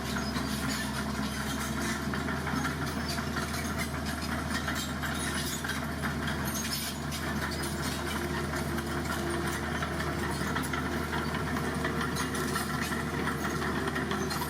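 Heavy diesel engine of a dump truck running steadily, with a hissing, crackling noise over it.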